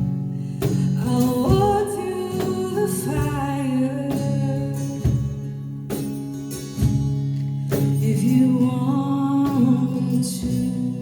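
A woman singing a gospel worship song in long held, wavering phrases, with instrumental accompaniment of steady chords and occasional sharp hits.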